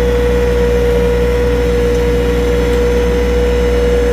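Small farm tractor's engine running steadily: a low hum with a steady whine over it.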